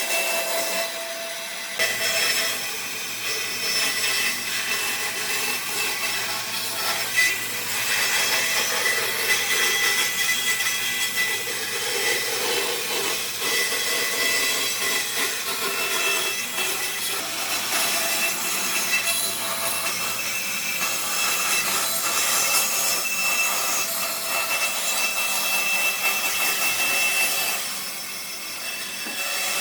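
A power tool working wood, running steadily, with brief lulls near the start and near the end.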